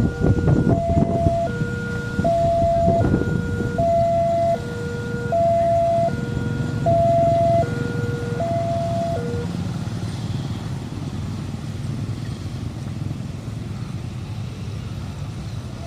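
Railway level-crossing warning alarm sounding two alternating electronic tones, high then low, each held just under a second. It stops about nine seconds in, leaving a steady low rumble.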